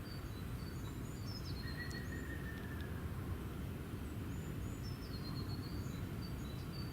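Outdoor ambience: a steady low rumble with faint, high-pitched bird chirps now and then.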